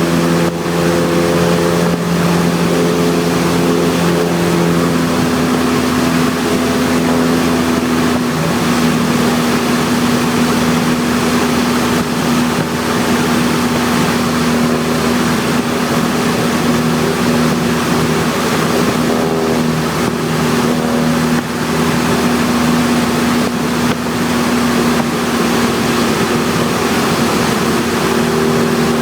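Cessna 172's piston engine and propeller droning steadily, heard inside the cabin with airflow noise; the engine's tone shifts about five seconds in.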